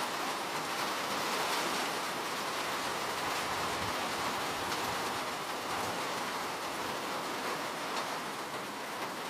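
Steady rain falling, an even rushing hiss of many drops with a few faint separate drop ticks.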